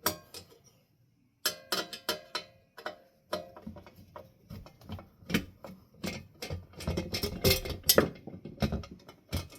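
Metal ceiling fan parts being handled and set down during disassembly: a string of clicks, knocks and clinks with short metallic ringing. It starts about a second and a half in and is busiest near the end.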